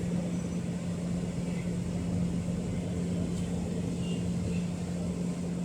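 Steady low mechanical hum with one constant droning tone over a low rumble, unchanging throughout.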